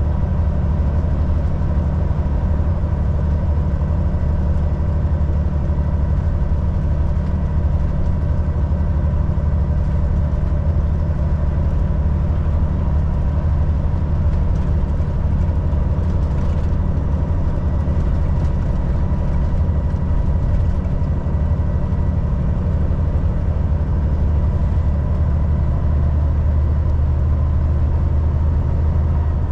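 Volvo VNL 760 semi truck's engine and road noise: a steady low drone with a faint, steady high whine over it.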